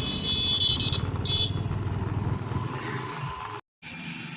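A motor vehicle's engine running with a steady low rumble, a high whine laid over it during the first second and a half. The sound cuts out completely for a moment near the end.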